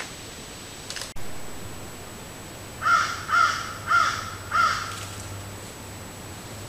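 A bird calls four times in quick succession, short arched calls about half a second apart, over the steady hiss of a trail camera's microphone. A click about a second in marks the cut from one trail-camera recording to the next.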